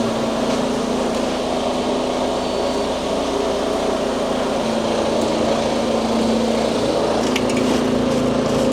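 Truck diesel engine running at a steady speed, an even drone with a constant hum.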